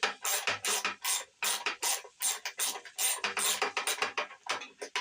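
Hand ratchet wrench clicking in quick back-and-forth strokes, about four to five a second, working a stubborn valve-cover bolt loose.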